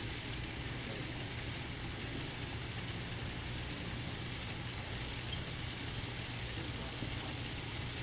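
N scale Norfolk Southern diesel locomotive consists running on the layout: a steady, even hum with a faint hiss.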